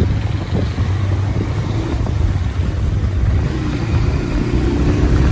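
Motorcycle engine running steadily, its low hum under a haze of wind and road noise.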